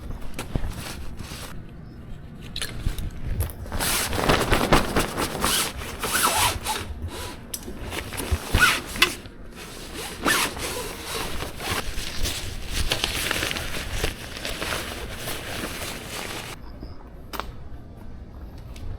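Irregular rustling and scraping handling noise with scattered clicks and knocks. It is busiest in the middle and stops abruptly near the end.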